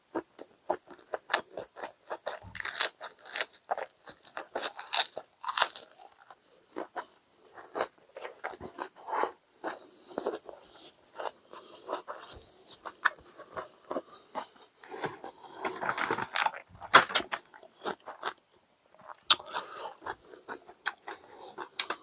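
Close-up crunching and chewing of a mouthful of lettuce wrap, in irregular bites and crackles.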